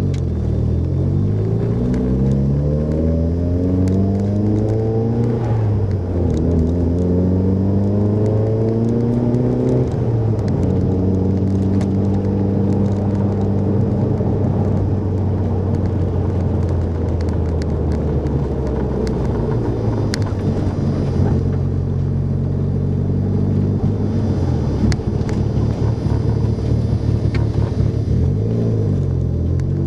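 Mitsubishi Lancer Evolution VIII's turbocharged four-cylinder with a straight 3-inch exhaust, heard from inside the cabin. The engine revs up steadily, drops back briefly about six seconds in and climbs again. Around ten seconds in it falls to a lower, steady running note for most of the rest, then starts revving up again near the end.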